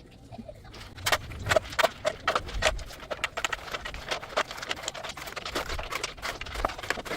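A quick, irregular run of knocks and clicks, starting about a second in and continuing throughout.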